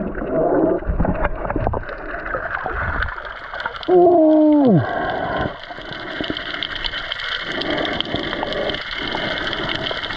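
Underwater ambience on a dive: a steady crackle of fine clicks with gurgling bubbles. About four seconds in, a loud pitched tone with a strong overtone sounds for under a second and drops in pitch at its end.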